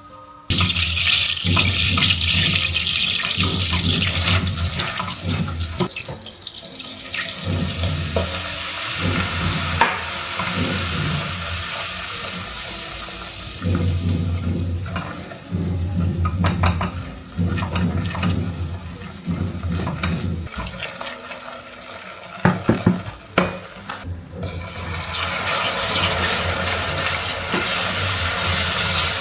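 Water running from a kitchen tap into a sink, stronger in the last few seconds, with a few knocks of dishes or utensils.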